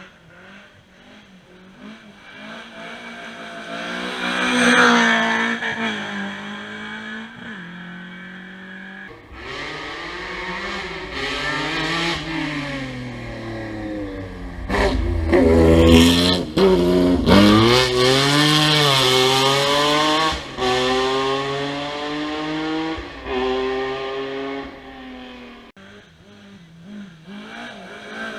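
Historic rally cars going by on a special stage, one after another: engines revving hard and climbing in pitch through each gear, dropping at every shift, loudest as each car passes and then fading away.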